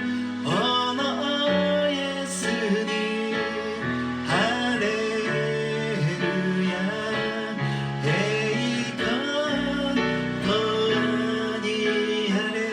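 Worship song: acoustic guitar playing with a voice singing along.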